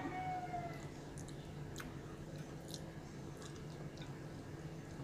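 Close-up chewing with sharp mouth clicks and chopsticks clicking and scraping on a plate as the last scraps are picked up, over a steady low hum. A rooster's crow trails off about a second in.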